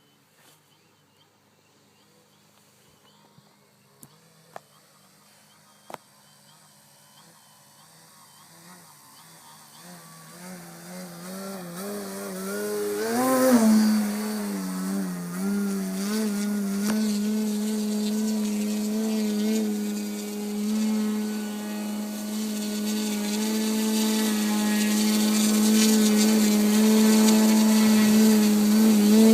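Electric motor and propeller of a radio-controlled Edge 540 model plane running: a steady buzzing tone that comes up from quiet, wavers briefly, then holds its pitch while growing steadily louder. A few faint clicks are heard before it starts.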